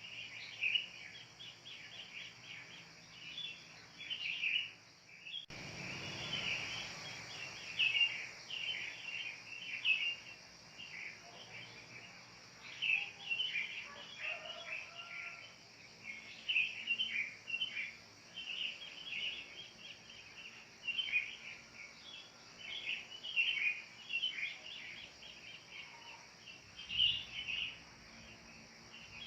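Wild birds chirping and calling in quick overlapping clusters, over a steady high hiss.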